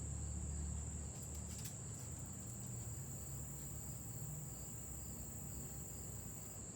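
Crickets trilling as one steady, unbroken high-pitched tone, over a low rumble. A few faint clicks come about a second and a half in.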